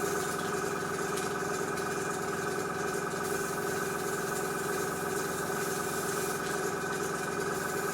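Small airbrush air compressor running with a steady, unchanging hum.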